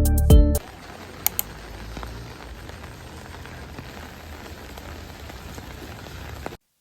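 Steady rain falling, an even hiss of patter, with a couple of faint drips or ticks just over a second in. Background music cuts off about half a second in, and the rain stops abruptly near the end.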